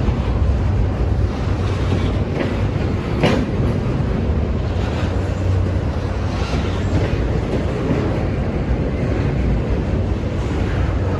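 Norfolk Southern intermodal freight train's cars rolling past: a steady low rumble with occasional sharp clacks of the wheels over rail joints, the clearest about three seconds in.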